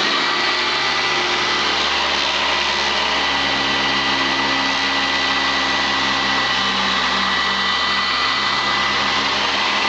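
Sanitaire SC899 commercial direct-air upright vacuum cleaner running steadily, a constant motor rush with a high whine.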